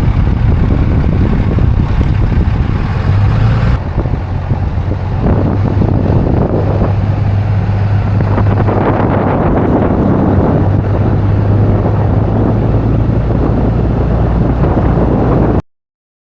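Pickup truck driving on the road: a steady low engine hum with road and wind noise, dipping briefly about four seconds in, then cutting off suddenly near the end.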